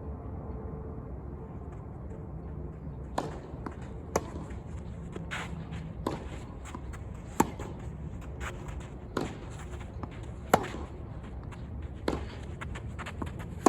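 Tennis ball being struck by rackets and bouncing on the court during a rally: sharp cracks about every second, starting about three seconds in.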